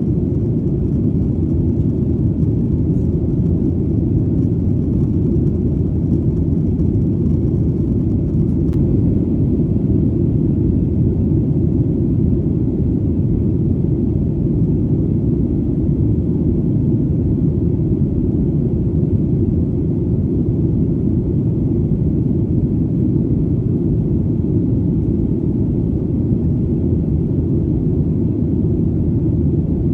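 Airplane in flight: a steady, deep rumble of engine and airflow noise that does not change.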